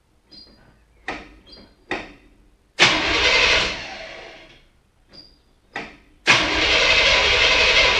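1968 Chevrolet Camaro SS V8 starting for the first time after sitting 9.5 years: a few short turns of the starter, a brief catch about three seconds in that fades out, then more cranking until it fires near the end and keeps running steadily and loudly.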